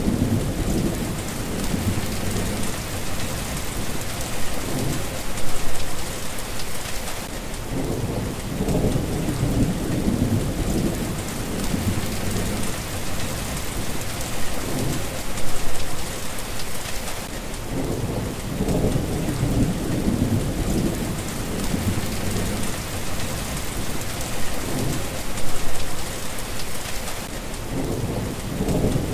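Steady rain with low rumbles of thunder swelling up about every ten seconds.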